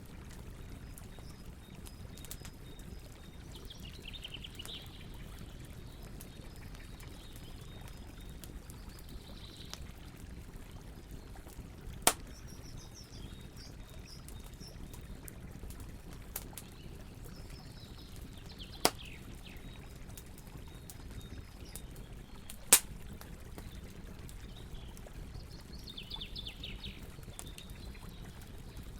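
Campfire burning with a steady low rush and three sharp, loud pops spaced a few seconds apart. Birds chirp briefly now and then.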